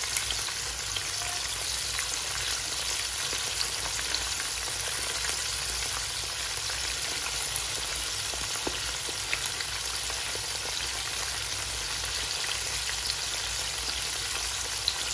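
Cornflour-coated chicken wings frying in hot oil in a wok: a steady sizzle with a few scattered pops and crackles.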